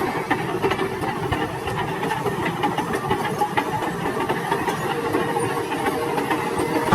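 An engine running steadily, with many small irregular clicks and knocks over it.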